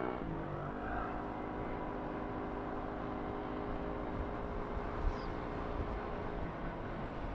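Motorcycle engine running steadily while riding; its note eases down just after the start, then holds an even pitch.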